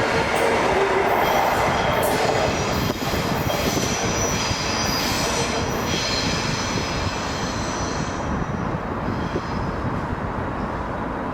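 A train running along the track, with high-pitched wheel squeal over the rushing rail noise; the squeal and noise ease off after about eight seconds.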